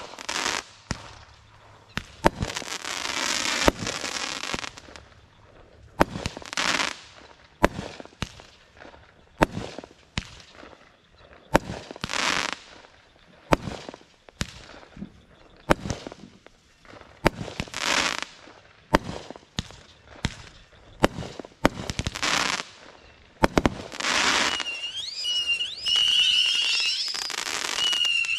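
Consumer fireworks going off in a long string of sharp bangs, with a hissing, crackling burst every few seconds. High wavering whistles join in during the last few seconds.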